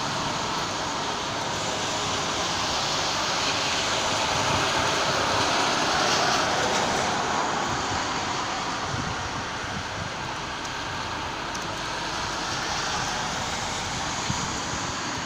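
Road traffic noise from a city street: a steady rush of tyres and engines that swells around the middle and then eases.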